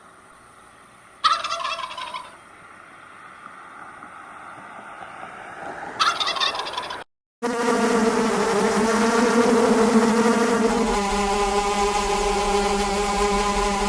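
Turkey gobbling: two short gobbles, about a second in and about six seconds in. After a sudden break, a long, loud, steady animal call follows, shifting in pitch about eleven seconds in.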